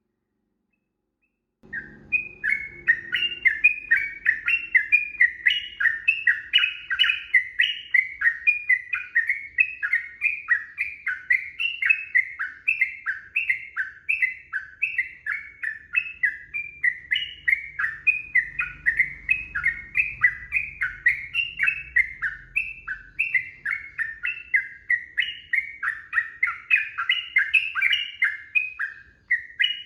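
Sooty-headed bulbul (trucukan) singing a long, unbroken run of short, quick chirping notes, several a second, starting about two seconds in.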